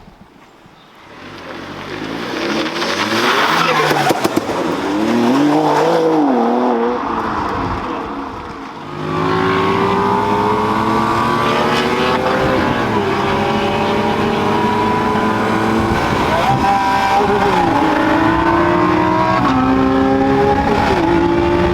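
Car engine revving up and down a few times, then pulling hard through the gears: a long, slow climb in pitch, with short drops at two gear changes near the end.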